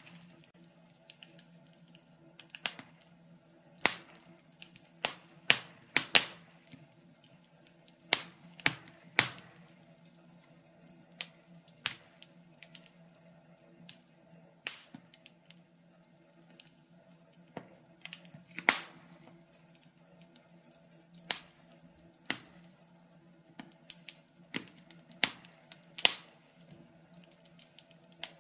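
Wood fire crackling in a fireplace: irregular sharp pops and snaps, some loud, every half second to two seconds, over a faint steady low hum.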